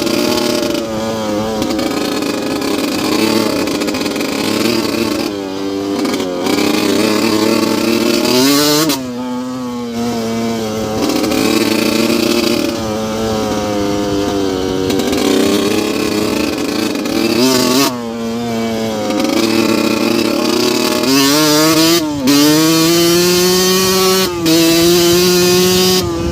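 2002 Yamaha YZ125's 125 cc single-cylinder two-stroke engine, revving up and dropping back again and again. Several brief breaks come with a sharp drop in pitch, and its pitch climbs steeply near the end.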